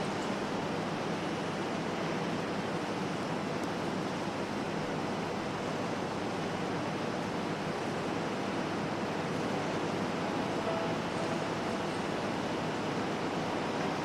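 A steady, even wash of noise with no beat and no clear notes, part of an ambient electronic performance played on an Elektron Model:Samples.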